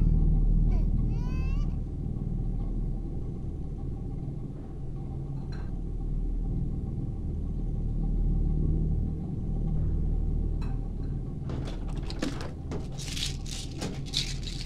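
A steady low rumbling drone, with an infant's crying trailing off in the first two seconds. Near the end, a run of sharp clicks and rattles.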